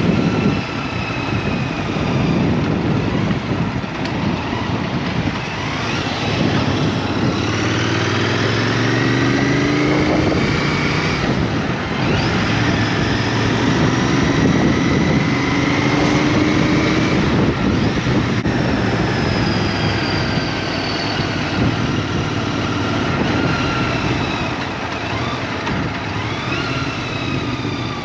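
Small motorbike engine running on the open road, its pitch rising twice as it speeds up and then falling away, over a steady rush of road and wind noise.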